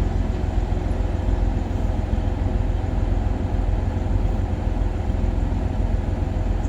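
Diesel train engine idling: a steady low rumble with a faint steady hum above it.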